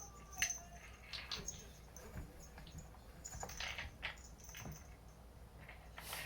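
Cats playing: scattered light taps, clicks and scuffles at irregular intervals, with one sharper click about half a second in.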